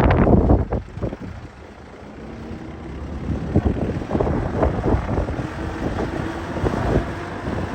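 Massey Ferguson 2680 HD tractor's diesel engine running, with wind gusting on the microphone. The gusting is loudest in the first second, dips, and then the engine sound builds steadily.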